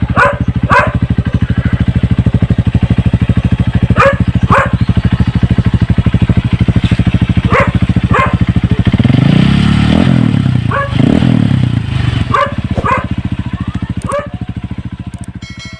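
Honda CRF150's single-cylinder four-stroke engine idling through a gutted, baffle-opened exhaust pipe with a steady, even beat, revved briefly twice in the middle. A dog barks repeatedly over it.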